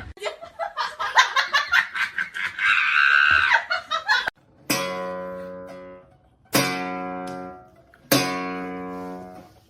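A run of rapid fluttering sounds that cuts off abruptly, then three strummed acoustic guitar chords about a second and a half apart, each left to ring and fade.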